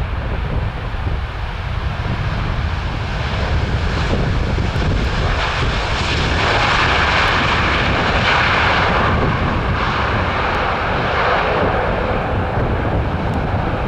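Jet airliner's engines passing close by, building from a few seconds in to a peak around the middle with a steady whine, then easing off toward the end. Wind rumbles on the microphone throughout.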